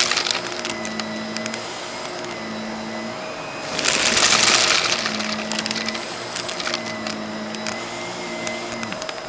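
Vacuum cleaner running steadily while it sucks up cut-up cardboard puzzle pieces, which click and rattle through it. A louder rush of rattling comes about four seconds in, lasting about a second.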